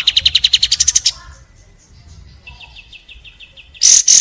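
Pied triller (kapas tembak) song: a fast, loud trill of rapid repeated notes rising in pitch that stops about a second in, a fainter, lower trill in the middle, then a few loud, sharp, high notes near the end.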